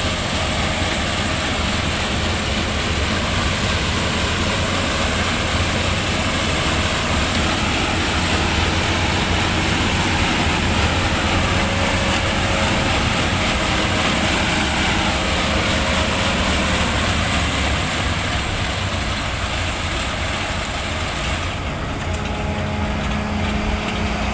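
Sugarcane harvester's diesel engine running steadily as it cuts cane, a loud continuous machine noise with a low hum. About three seconds before the end the hiss in the upper part of the sound drops away.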